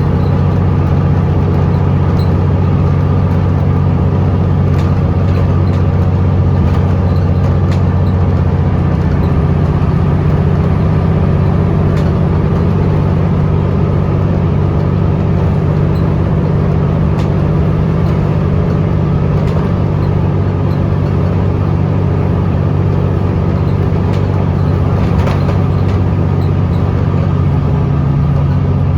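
Interior sound of a Scania L94UB bus's diesel engine running steadily under way, with a constant drone and occasional light clicks and rattles.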